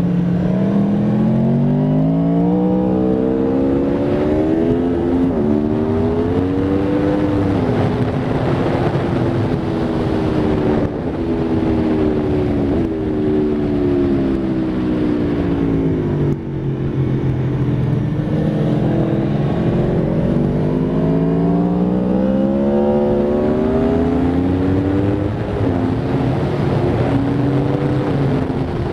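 Aprilia Tuono V4 RR's V4 engine under hard riding on a race track. The revs climb over several seconds, drop back and climb again as it works through the gears, with brief cuts in the sound about eleven and sixteen seconds in.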